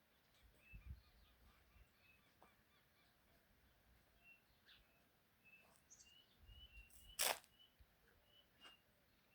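Faint bird chirps, short notes repeated over and over throughout. A single sharp click about seven seconds in is the loudest sound, and there are a couple of low bumps near the start and just before the click.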